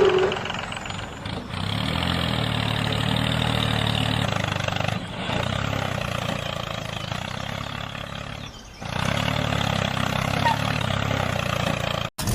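A motor running steadily with a low hum and rattle, dipping briefly twice, once around five seconds in and again near nine seconds.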